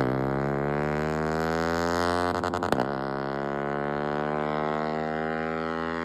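Yamaha R15 motorcycle's 155 cc single-cylinder engine running at speed through its exhaust, a steady droning note. A quick rattle of exhaust pops comes right at the start and another about two and a half seconds in, as the rider shifts gear.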